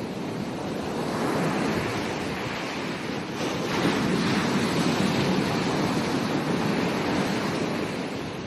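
Ocean waves breaking on a beach, a steady rush of surf that swells about a second in, is loudest through the middle and eases off near the end.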